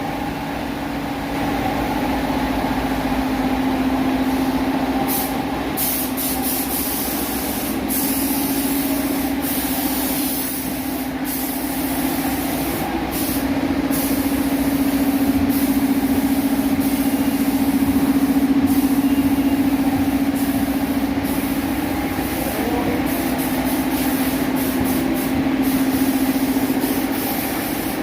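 A motor-driven machine running steadily, with a constant hum and a hiss over it.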